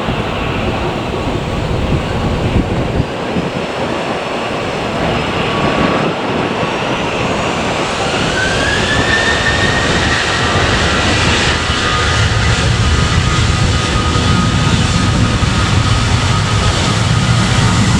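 Jet airliner's turbofan engines running, a rumble with a high whine that rises in pitch about eight seconds in and then holds steady, the whole sound growing louder.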